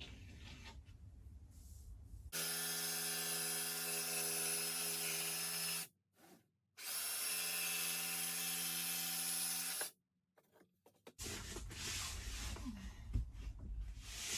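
Power tool motor running at a steady, unchanging speed while working a plywood wall panel, in two runs of about three and a half seconds each that cut off abruptly. Quieter handling noise comes before and after.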